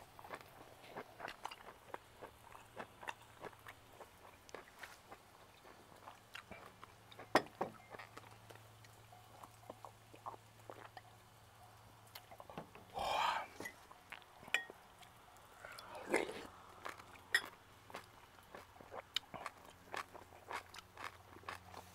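Close-up chewing of grilled steak: wet mouth smacks and clicks, several a second, with a louder rushing sound lasting about a second near the middle.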